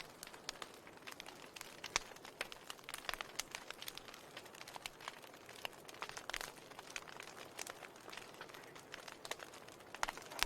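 Wood fire crackling: irregular sharp pops and snaps over a soft hiss, with a louder pop near the end.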